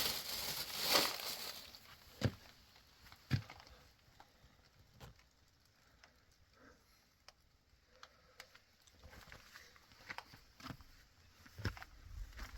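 A short rush of noise at the start, then two sharp knocks and scattered light taps and rustles.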